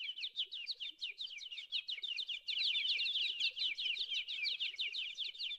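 Birds chirping in a dense, continuous run of quick downward chirps, several a second and overlapping.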